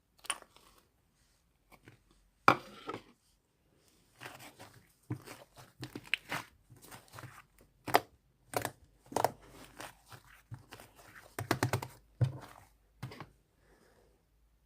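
Slime being squished and stretched by hand, giving irregular crackles, pops and crinkly tearing sounds in short clusters, with a quick run of clicks about eleven seconds in.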